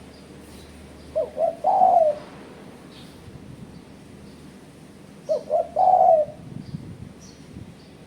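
Spotted dove (tekukur) cooing: two calls about four seconds apart, each two short coos followed by a longer one. Faint high chirps of small birds sound in the background.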